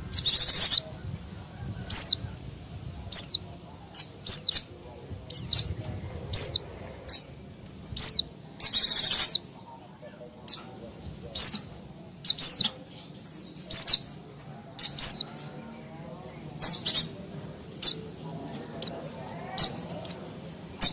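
White-eye (pleci) calling: short, high, downward-slurred chirps repeated irregularly, roughly once a second, with a few longer buzzier notes. This is a noisy lure call used to attract wild white-eyes.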